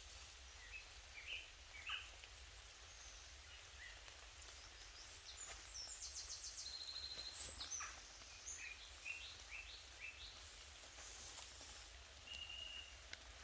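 Small woodland birds singing and calling faintly: scattered short chirps, a quick trill about halfway through and a short whistled note near the end.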